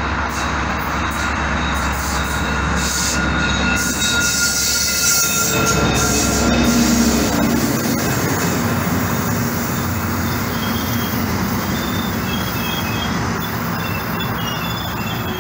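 Commuter train with a diesel locomotive and bi-level coaches rolling past close by, next to a double-stack intermodal freight train on the adjacent track: a loud, steady rumble of engine and wheels on rail, heaviest in the first half as the locomotive approaches. Thin high wheel squeals come and go in the second half as the coaches pass.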